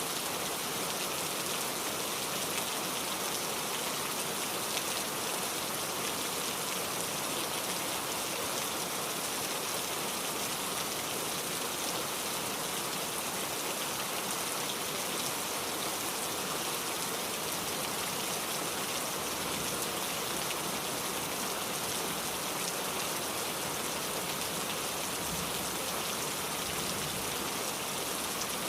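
Steady rain falling, an even patter on a surface with no change in intensity.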